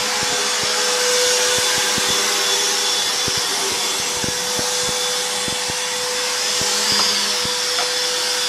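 Vacuum cleaner running steadily, a motor whine over a rushing hiss, with scattered light clicks as it is pushed over the floor.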